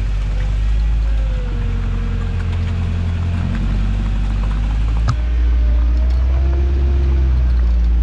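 Toyota truck's engine running steadily while driving off-road, with faint squeals rising and falling over it. A sharp knock comes about five seconds in, and the engine is a little louder after it.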